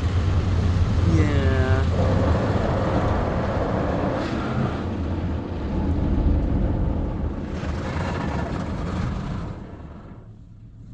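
Mark VII ChoiceWash XT soft-touch car wash brushes scrubbing over the car with water spray, heard from inside the cabin: a loud, steady wash noise with a deep low hum that falls away sharply near the end as the brushes move off.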